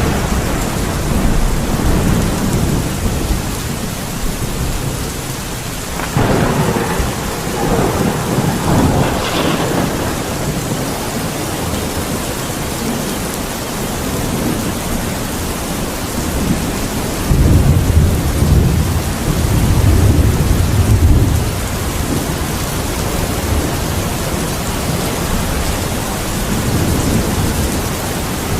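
Steady rain with rolling thunder: a sudden clap about six seconds in that rumbles on for a few seconds, and a louder deep rumble from about seventeen to twenty-two seconds in.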